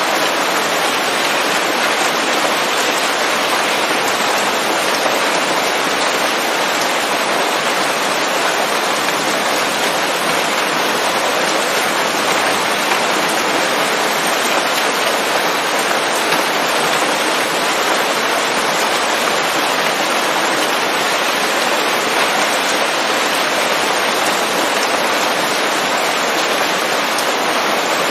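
Steady rain falling on leaves, a dense, even hiss of drops with no single drops standing out.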